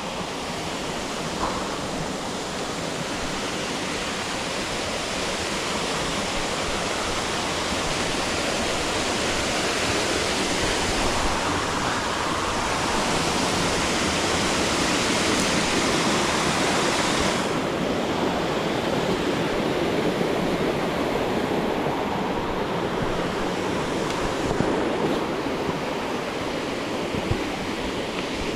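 Waterfall water rushing in a steady roar. The hiss in the upper range drops off abruptly about two-thirds of the way through.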